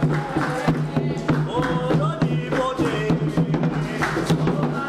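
Candomblé ritual music: drums and percussion beating a steady, fast rhythm while voices sing a chant.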